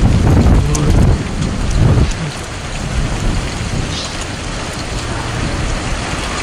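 Thunderstorm rain falling steadily, with a low rumble of thunder over the first couple of seconds that then eases off.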